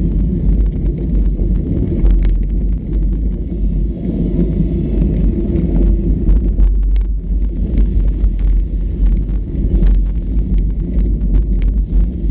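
Off-road vehicle riding over a rough trail: a steady low rumble with scattered sharp knocks and rattles.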